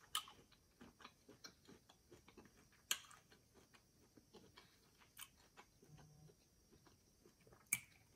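Faint close-up chewing of cold cocktail shrimp: soft wet mouth clicks and smacks, with a few sharper clicks about three seconds in and near the end.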